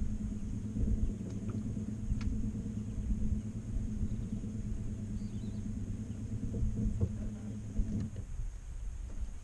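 A steady low motor hum that stops about eight seconds in.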